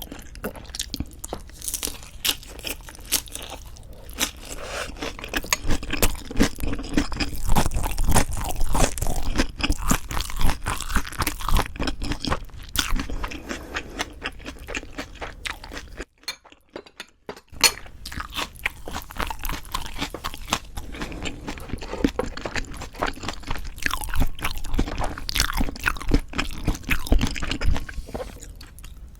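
Close-miked chewing and crunching of leaf wraps filled with raw fish bibimbap and boneless chicken feet, with many irregular crisp bites. The sound drops out briefly a little past halfway.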